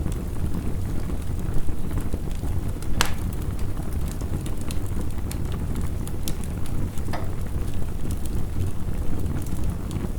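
Wood fire crackling with scattered sharp pops, the loudest about three seconds in and another near seven seconds, over a steady rush of heavy rain.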